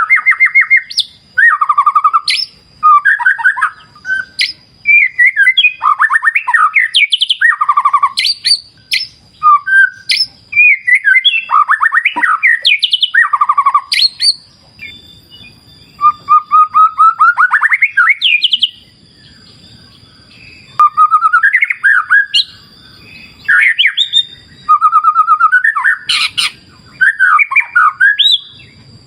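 White-rumped shama singing: loud, quickly changing phrases of whistles, rising trills and rapid buzzy notes, broken by short pauses.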